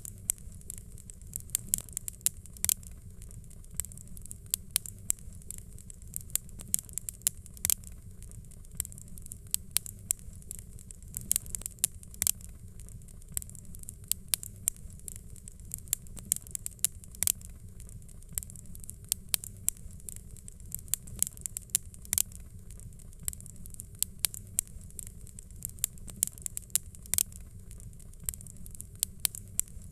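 Fire crackling: frequent irregular sharp pops and snaps over a low steady rumble.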